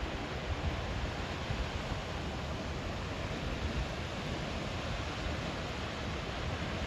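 Artificial waterfall: a steady rush of falling water, an even noise with no pitch that stays constant throughout.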